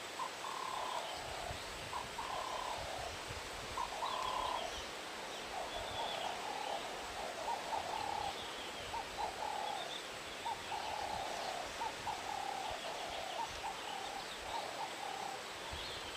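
Birds calling over and over in short, mid-pitched calls, one after another with little pause.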